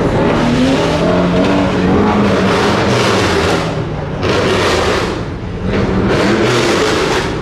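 Car engines running and revving; one engine's pitch rises over the first two seconds, followed by loud surges of exhaust noise.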